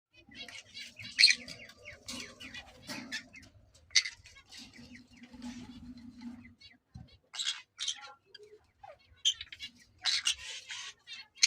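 Pineapple conures (a colour form of the green-cheeked conure) giving short, sharp chirps and squawks at irregular intervals. The loudest calls come about a second in, at about four seconds, and twice more in the second half.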